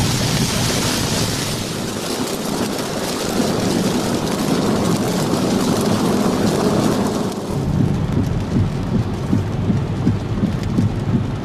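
Heavy rain pelting a moving car's windshield and body, mixed with road and wind noise. About seven seconds in the sound turns deeper and more uneven, with irregular surges.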